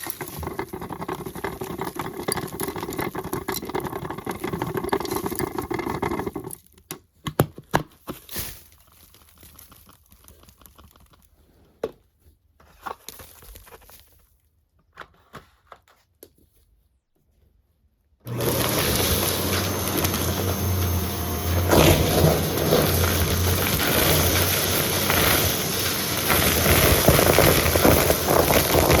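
Vacuum cleaner running, then switched off for about twelve seconds of scattered clicks and crackles, then switched back on about eighteen seconds in and running loud and steady.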